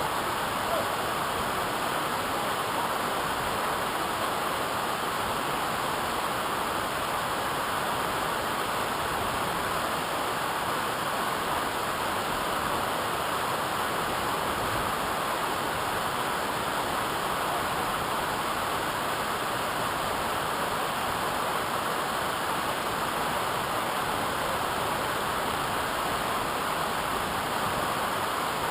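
Waterfall water pouring, a steady even rush that does not change.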